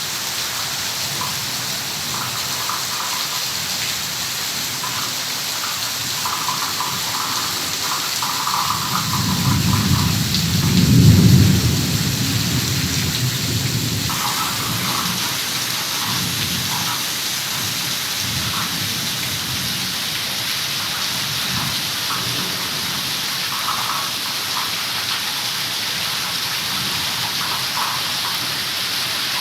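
Heavy rain falling steadily, with a low rumble of thunder that swells about nine seconds in, peaks, and fades a few seconds later.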